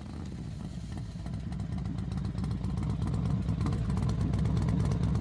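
Harley-Davidson V-twin motorcycle engine running with a rapid low pulse, growing louder over the first couple of seconds and then holding steady.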